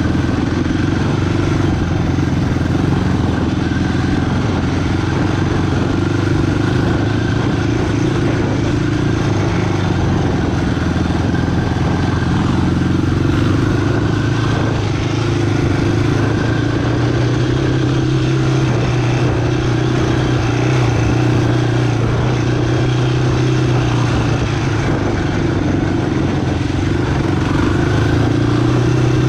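Single-cylinder four-stroke sport ATV engine running steadily as the quad is ridden, the revs rising and falling only a little.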